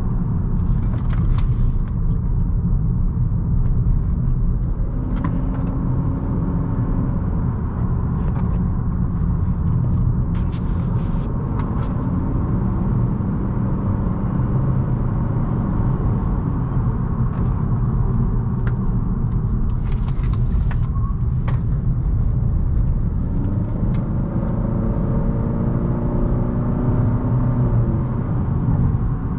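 2018 Honda Accord's 1.5-litre turbocharged four-cylinder engine being driven hard through tight curves over a steady rumble of road and tyre noise. The engine note climbs in pitch around five seconds in and again near the end, with a few short clicks along the way.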